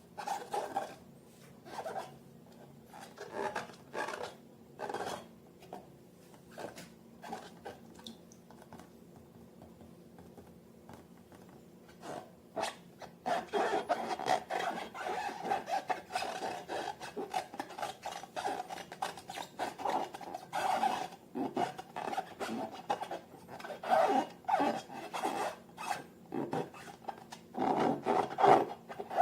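Hands working slime: sticky rubbing, squishing and crackling strokes, scattered at first, then after a lull a dense, continuous run of kneading from about the middle onward.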